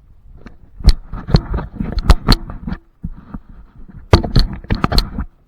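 A rapid, irregular series of loud knocks and thumps close to the microphone, in two clusters with a short pause between, like the camera or its mount being handled or bumped.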